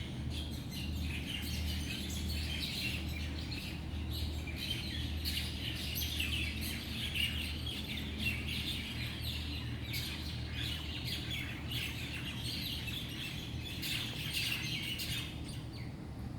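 Many birds chirping and calling at once in a dense, continuous dawn chorus, over a low steady hum.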